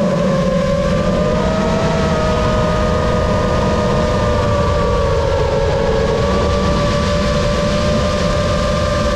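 A Lumenier QAV-S 5-inch FPV freestyle quad flying: its brushless motors and propellers give a steady whine whose pitch drifts slightly up and down with throttle.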